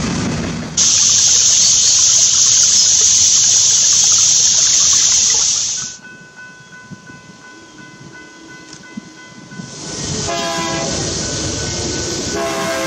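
Freight train cars rolling past on the rails with a loud steady hiss, which cuts off abruptly about six seconds in. After a few quieter seconds, an approaching diesel locomotive's air horn sounds for the crossing: a short blast about ten seconds in and another starting near the end.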